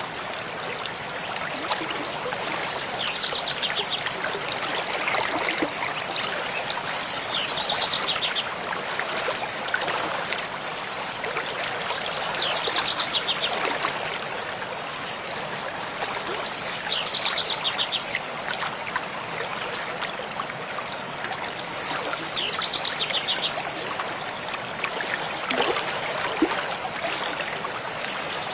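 Mountain stream flowing steadily, with a songbird repeating the same short phrase, ending in a fast trill, about every five seconds.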